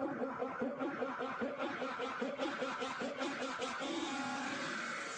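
A person laughing, a steady run of short repeated chuckles.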